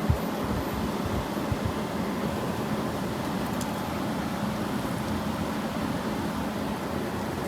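2001 Kenmore (WCI-built) 8,000 BTU R-22 room air conditioner running: a steady rush of fan air with a low, even hum, the unit cooling properly. A few low rumbles of air buffet the microphone in the first second or so.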